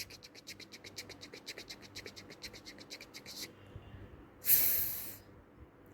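Cartoon scratching sound effect: a fast, even run of clicks, about ten a second, for three and a half seconds as a letter is drawn on screen. Two short hisses follow near the end.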